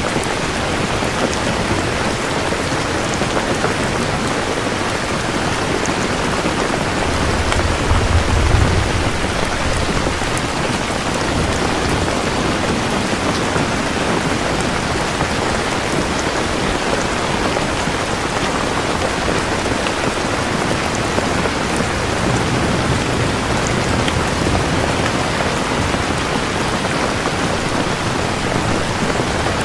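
Steady, heavy rain falling, with a low roll of thunder about eight seconds in and a fainter rumble later on.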